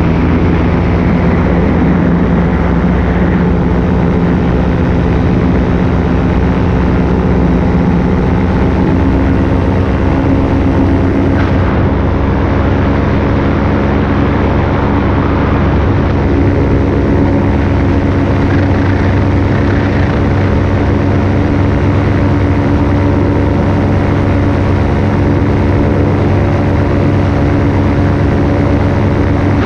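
Paramotor engine and propeller running steadily in flight, an even, unbroken drone with no change in throttle.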